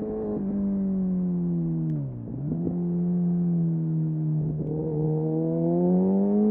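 Kawasaki Ninja motorcycle engine through an Arrow exhaust with the dB killer removed, heard from the rider's helmet. The engine note drops about two seconds in as the bike slows, breaks briefly at gear changes, and climbs again near the end under acceleration.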